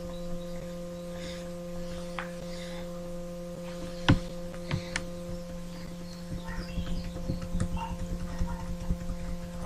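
Steady electrical hum with several pitches held throughout, with sharp clicks about four and five seconds in and a run of small clicks and taps near the end.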